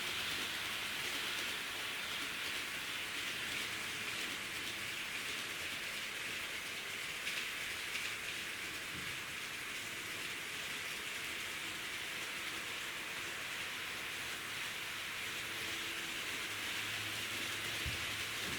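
HO-gauge model diesel railcar running on the track: a steady rolling hiss from the wheels and motor.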